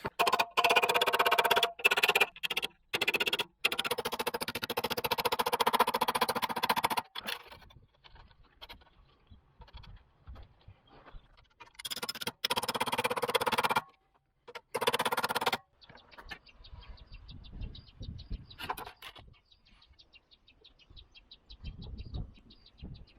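Power tool cutting sheet metal in short runs, cut off abruptly several times. After that come two more brief cuts, then quieter handling and faint, quick ticking.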